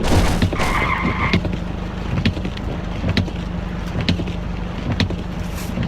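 Car running with steady engine and road noise, a brief tyre squeal from about half a second in lasting under a second, and scattered sharp knocks.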